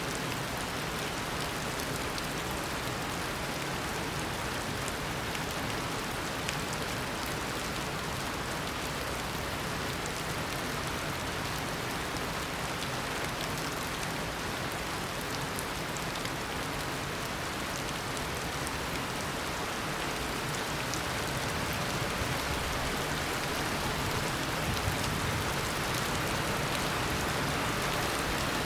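Heavy tropical rain pouring steadily, a dense hiss of drops falling on surfaces, growing slightly louder over the last few seconds.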